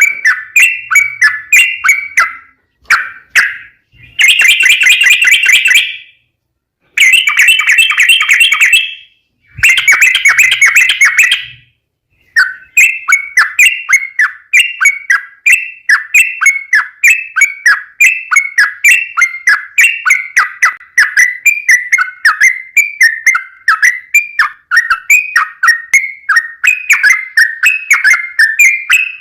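Yellow-vented bulbul (trucukan) song: bright chattering trills broken by two short silences, then a long run of short falling chirps at about three a second. This is the long rapid 'ropel' song used as a lure to make other trucukan answer.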